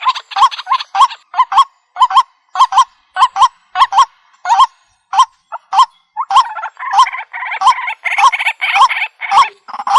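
White-breasted waterhen calling: a run of loud, harsh, hooked notes about two a second, becoming denser and overlapping from a little past halfway.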